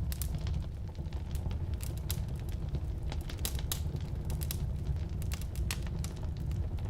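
Firewood burning in a fireplace or wood stove: a steady low rumble of the flames with sharp, irregular crackles and pops from the burning logs.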